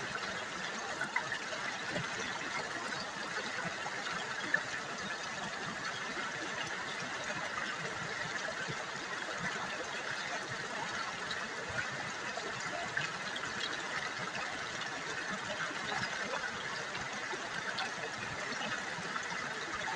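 River water babbling and splashing steadily over stones, a continuous trickling rush with small splashes.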